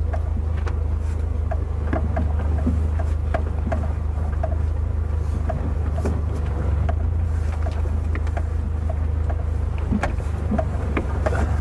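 Subaru Forester's flat-four engine running steadily under load in mud, a constant low drone, with scattered short knocks and clicks over it.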